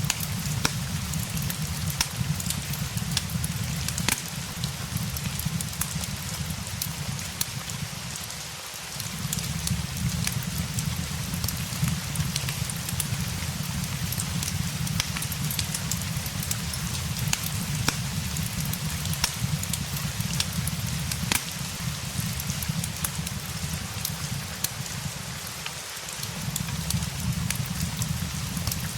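Steady rain mixed with a crackling fireplace: a constant hiss of rain dotted with many sharp crackles and pops, over a low rumble that fades out briefly twice.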